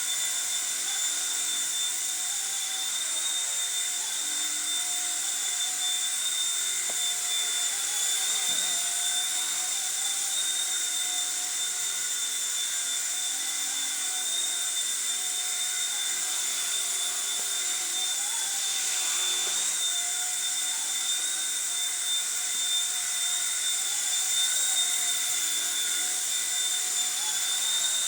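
Small electric RC helicopter (ERA C129 V2, fixed-pitch) running with a steady high-pitched motor whine and rotor buzz, its pitch wavering slightly as the throttle changes.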